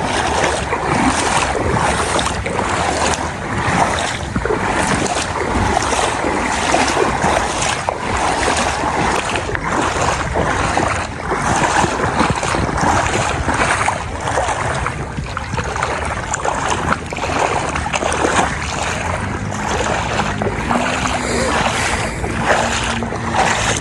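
Floodwater rushing steadily under a bridge, with gusts of wind buffeting the microphone.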